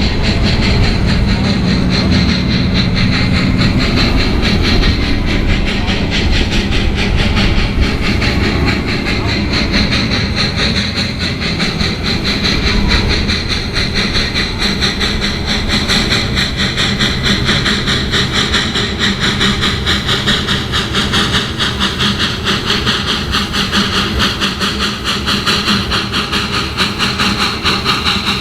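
Small live steam train running on its track: a steady hiss of steam over a rapid, continuous clatter.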